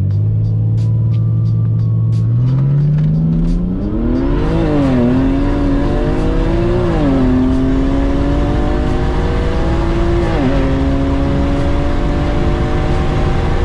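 Single-turbo BMW 135i inline-six engine, heard from inside the car, holding steady and then pulling hard from about two and a half seconds in on its lowest boost setting, about 15 psi. The pitch climbs through the gears, dropping briefly at three upshifts.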